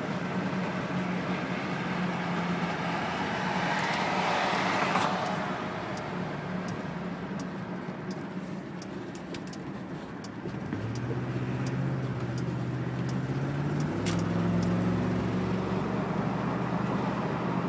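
Cabin sound of a 1999 Ford Crown Victoria with its 4.6-litre V8 accelerating: steady road and engine drone, with the engine note climbing for a few seconds and then stepping down about three quarters of the way in. The humming noise the car makes at freeway speed is not yet present.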